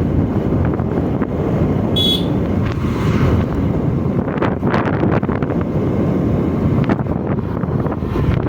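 Wind buffeting the microphone on a moving motorcycle, a steady rough rush with the bike's running mixed underneath. A brief high-pitched sound cuts in about two seconds in.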